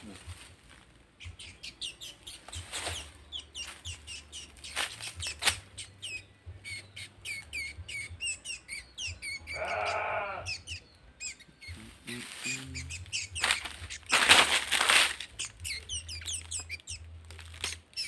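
Small birds chirping in many short, quick calls. About ten seconds in there is a pitched call lasting about a second, and there are several brief rustling bursts, the loudest about fourteen seconds in.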